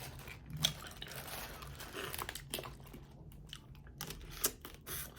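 Close-up eating sounds: chewing and crunching of food, with scattered short clicks and crackles.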